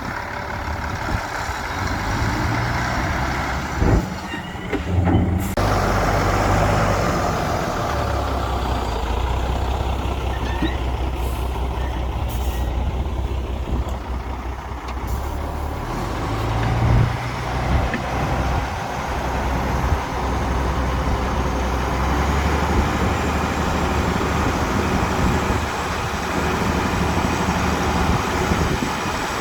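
Heavy diesel construction machinery, dump trucks and a bulldozer, running under load with a steady low rumble that shifts as the engines work. A few sharp knocks come about four to five seconds in.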